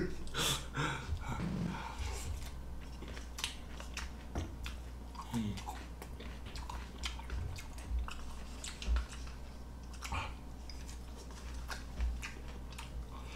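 A man chewing food close to the microphone, with small wet mouth sounds and scattered light clicks as he eats from a small cup.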